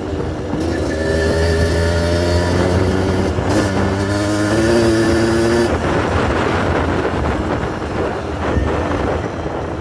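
Yamaha DT 125 two-stroke motorcycle engine under way, its pitch climbing, dropping at a gear change about three and a half seconds in, then climbing again. From about six seconds on it turns rough and noisy with no steady pitch, as off throttle over rough ground.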